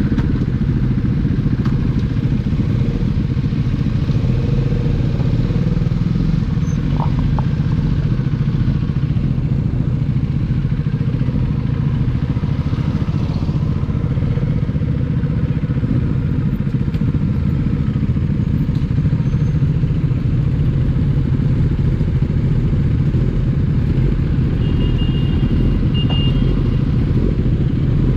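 Husqvarna Vitpilen single-cylinder engine and exhaust running at a steady pace while the bike is ridden, with a constant low rumble and no marked revving.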